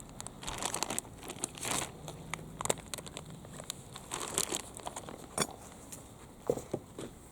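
Irregular crinkling and rustling, like paper or plastic being handled, with scattered sharp clicks.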